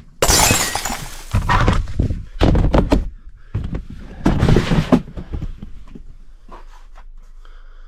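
Packaging being handled on a table: rustling with thumps in three loud bursts over the first five seconds, then quieter handling.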